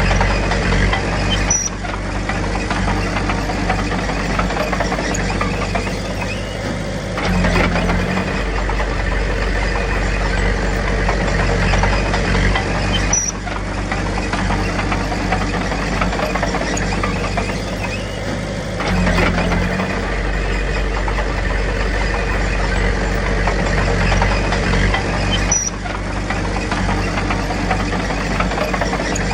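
Diesel engine of heavy earthmoving machinery running steadily, with a brief change in its sound about every six seconds.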